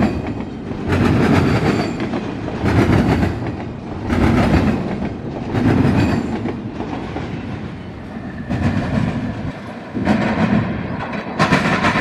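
Double-stack intermodal container cars rolling past, their wheel sets clattering in loud regular bursts about every one and a half seconds over a steady rumble of the train.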